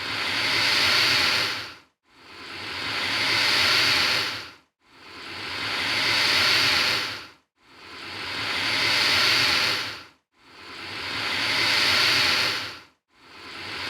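Alligator hissing, the same hiss repeated about every two and three-quarter seconds, five times over: each swells for about two seconds, then stops abruptly with a short silence before the next.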